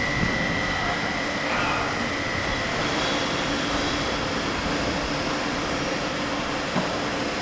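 Bayerische Regiobahn (BRB) electric regional train running at a station, a steady rush of noise. A high whine fades about three seconds in, a lower hum takes over, and there are a couple of faint clicks.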